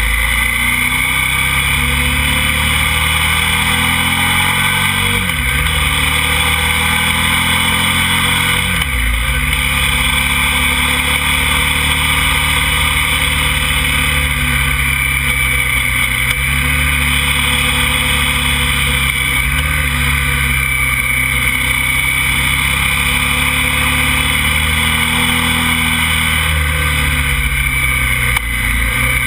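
KTM motorcycle engine running hard under acceleration, with steady wind rush on the microphone. The engine note dips sharply twice, about five and nine seconds in, as it shifts up, then holds steady at speed.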